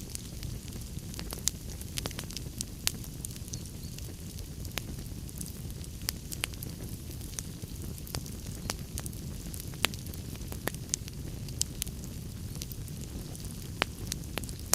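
Wood fire in a fireplace crackling: irregular sharp pops and snaps, roughly one or two a second, over a steady low noise of the burning logs.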